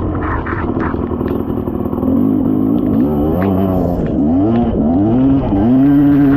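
Dirt bike engine revving in a run of quick rises and falls, then holding a steady, higher pitch near the end.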